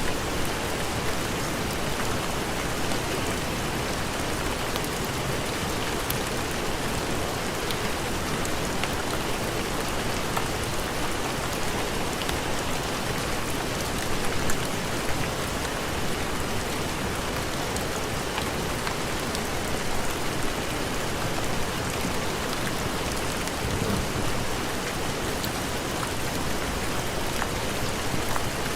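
Steady heavy rain falling and pattering on a surface, with scattered small sharp ticks.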